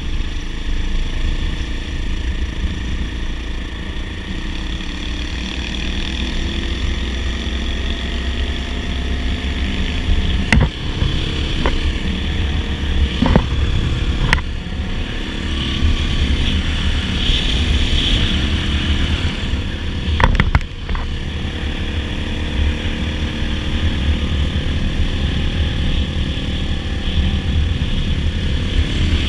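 Dirt bike engine running steadily while riding, with heavy low rumble on the microphone. A few sharp clicks come in around the middle.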